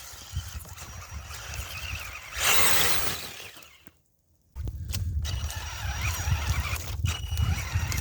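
Wind buffeting the microphone, with the thin high whine of a brushless RC truck motor running. A loud rush of noise comes about two and a half seconds in. The sound drops out to near silence for about half a second in the middle.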